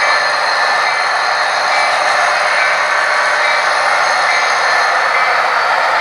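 Model train running on the layout: a steady whirring rush with a thin high whine over it.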